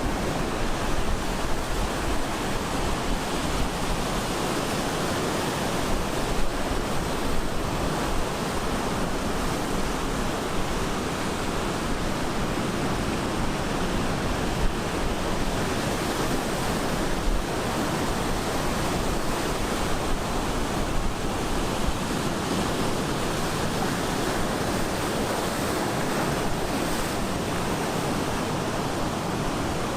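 Ocean surf breaking and washing on the shore in a steady, continuous rush, with some wind on the microphone.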